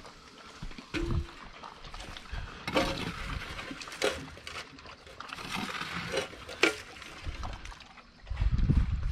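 Dogs eating from their bowls: irregular chewing and wet slurping, with a few sharp clicks and a short low sound about a second in.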